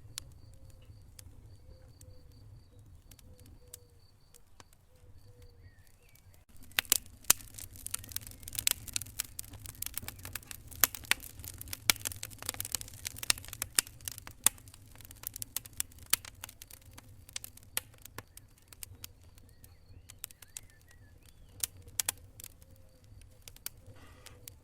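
Wood fire in a fireplace crackling, with sharp pops over a low steady rumble. The crackling is sparse at first, turns dense and loud about a quarter of the way in, then thins to scattered pops.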